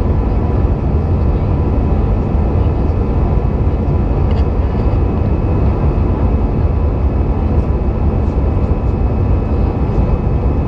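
Steady cabin noise of an Airbus A320 in its initial climb, heard from a window seat: a deep, even rumble of engines and airflow with faint steady whining tones above it.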